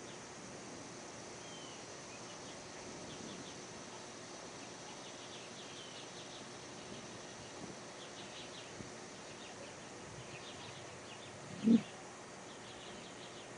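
Outdoor summer ambience: scattered short bird chirps over a steady high insect drone. About three quarters of the way through comes a single brief low thump, much louder than the rest.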